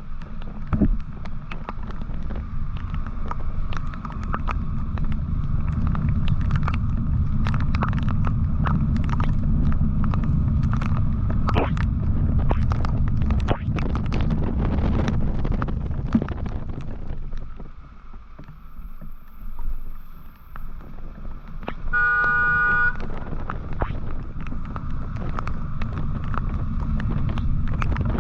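Motorcycle riding along a road, a steady low rumble of engine and wind on the microphone with many small clicks, easing off for a few seconds past the middle. About twenty-two seconds in, a vehicle horn sounds once for about a second.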